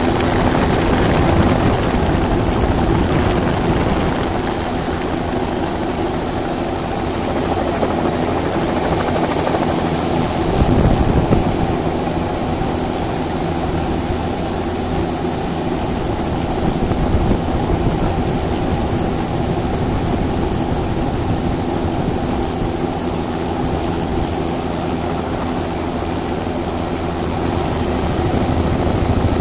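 Helicopter in flight: the rotor and engine drone steadily, with a thin high whistle on top.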